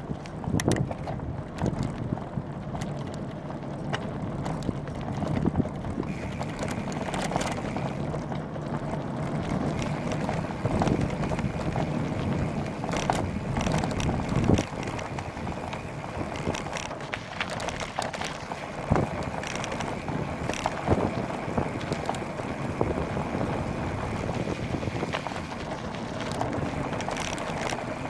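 Wind buffeting a bike-mounted camera's microphone while riding a bicycle on a rough trail, with scattered knocks and rattles from the bike going over bumps.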